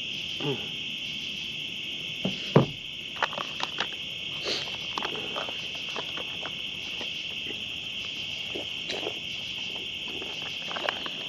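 Night-time chorus of crickets and other insects, a steady high chirring, with scattered short pops and crackles from a campfire now and then.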